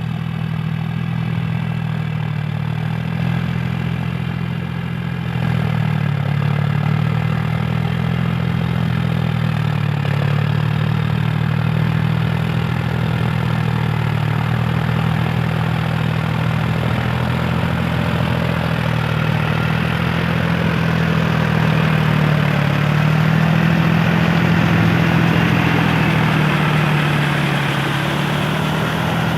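Powertrac four-wheel-drive tractor's diesel engine running steadily under load while puddling in deep mud. It gets a little louder about six seconds in and swells again past twenty seconds.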